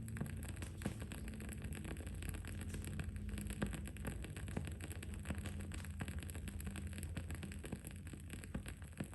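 Wood-wick candle crackling: small, sharp pops at irregular intervals over a steady low background hum.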